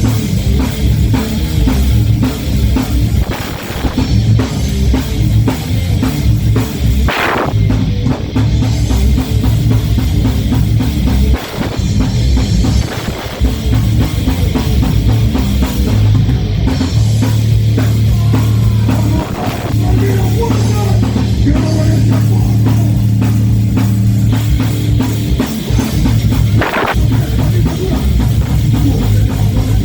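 Live heavy rock band playing: drum kit, distorted electric guitars and bass, loud and dense, with a long held low note from the middle on and a cymbal-like crash twice.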